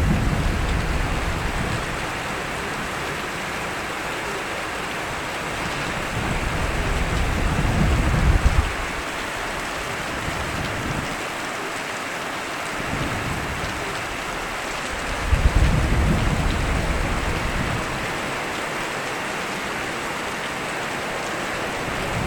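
Steady, heavy rain with low thunder rolling in several times: at the start, around six to eight seconds in, about fifteen seconds in, and building again near the end.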